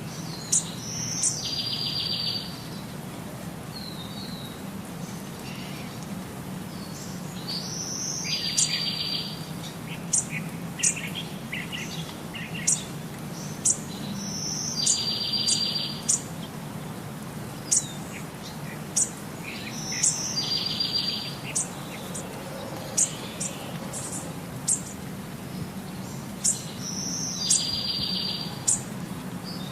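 A songbird sings the same short song about every six seconds, each time a quick high note running into a buzzy trill about a second long. Short, sharp high chirps come between the songs.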